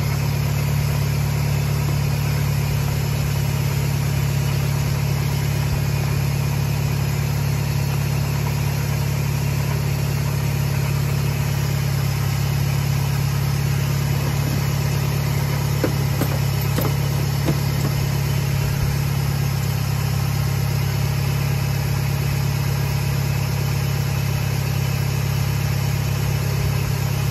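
Toyota VVT-i engine idling steadily with freshly fitted NGK spark plugs, running quietly; the owner says it was shaking the day before.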